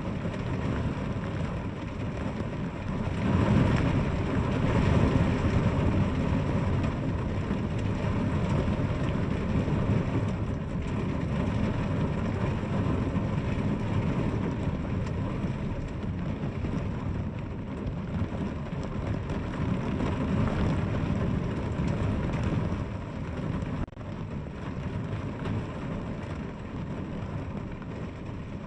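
Steady rain falling, a continuous hiss with a deep rumble underneath that swells louder a few seconds in.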